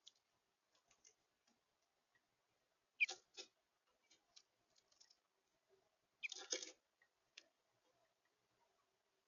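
A bird moving about on a bird feeder: sparse light taps and clicks, with two louder short clusters of clattering taps about three seconds in and again about six and a half seconds in. The bird is an eastern bluebird.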